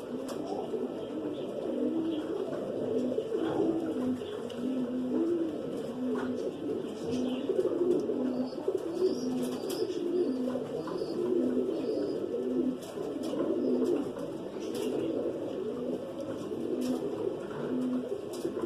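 Domestic pigeons cooing continuously, several birds' low repeated coos overlapping.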